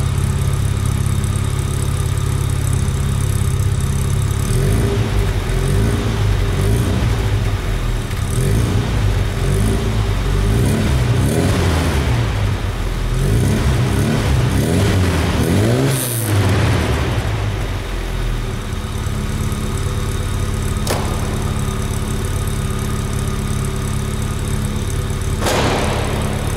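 Opel Manta GSI engine heard at its exhaust: idling steadily, then revved again and again in quick blips, the pitch rising and falling for about twelve seconds, before settling back to a steady idle.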